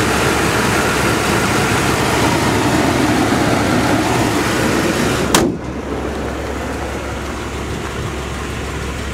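1992 Cadillac Brougham's 5.7-litre 350 V8 with throttle-body fuel injection idling quietly and steadily. About five seconds in comes one sharp slam, the hood being shut, and after it the idle is quieter and duller.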